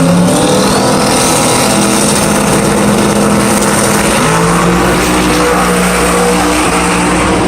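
Drag race car engines running at the track, a loud, steady rumble whose pitch holds level and steps between notes, over dense track noise.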